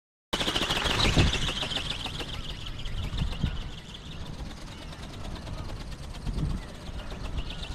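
Whine of a small ornithopter's geared brushless electric motor and flapping wings, loudest about a second in and then fading as it flies off. Strong wind buffets the microphone, and black-tailed gulls call now and then.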